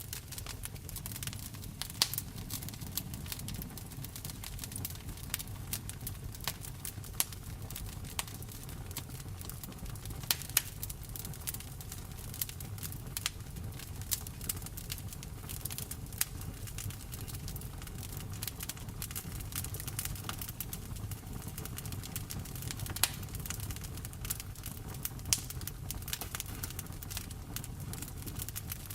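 Wood fire in a fireplace crackling, with many sharp irregular pops and snaps over a steady low rumble, mixed with rain.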